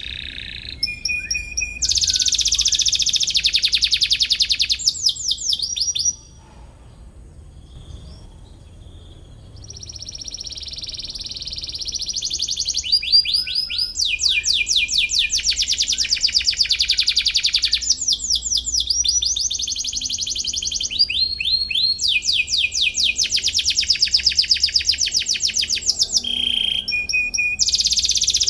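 Domestic canary singing: long, fast trills of repeated notes broken by short chirps. The song goes soft for a few seconds about six seconds in, then the trills start again.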